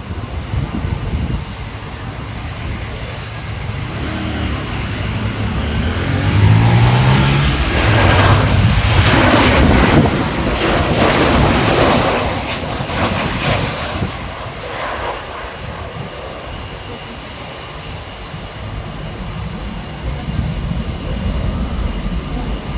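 Jet engines of a Boeing 737-800 (CFM56-7B turbofans) on landing approach, passing close by: the engine noise swells to a peak in the middle, with the pitch sliding as it goes past, then fades back to a steady rumble.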